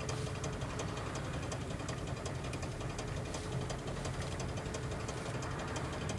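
Rapid ticking and crackling from the VAZ 2109's rear right wheel as the car rolls, heard inside the cabin over a steady engine and road rumble. A bolt screwed in at the wheel is rubbing against the brake pad.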